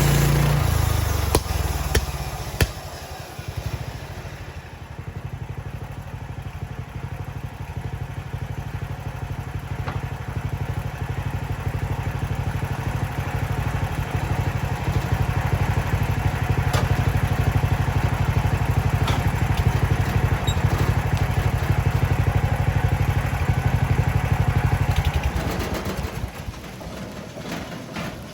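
Mechmaxx portable sawmill's gasoline engine running with a fast, even chugging. A couple of knocks come about two seconds in and the sound drops in level. It then grows louder through the middle and dies away near the end.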